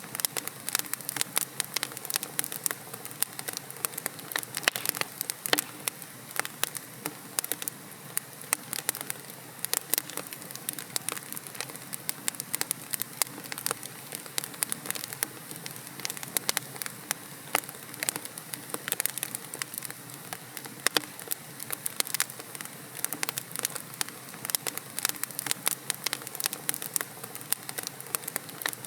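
Wood fire in a fireplace crackling: burning logs give dense, irregular sharp pops and snaps over a soft steady hiss.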